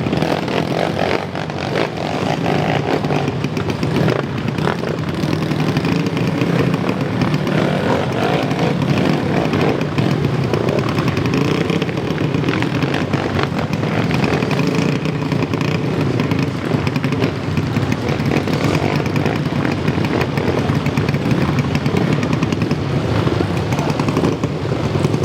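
Motocross motorcycle engines revving loudly and continuously.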